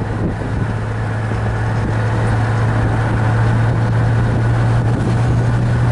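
1965 Ford Mustang's 289 V8 with dual exhaust running smoothly while the car is driven at road speed: a steady low drone over road noise, gradually getting a little louder.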